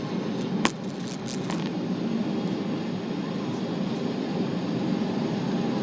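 Steady rushing cabin noise of a Boeing 777-300 in flight, the engines and airflow heard from inside the cabin. There is a sharp click about two-thirds of a second in, and a few fainter ticks soon after.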